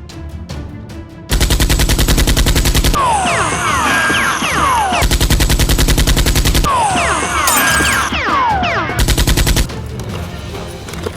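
Automatic gunfire sound effects in three long, very rapid bursts over background music. Short falling whistling tones sound in the gaps between the bursts.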